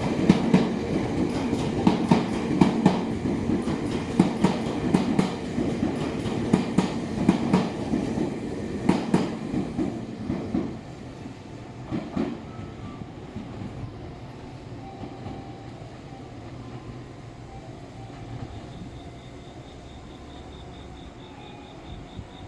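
Electric train running along the platform track, its wheels clacking over the rail joints in a steady rhythm over a low rumble. The clacking dies away about ten seconds in, leaving a quieter rumble.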